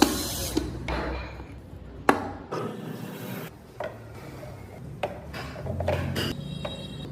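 Hand tools working a block of wood: a few sharp knocks a second or two apart, with rubbing and scraping on the wood between them.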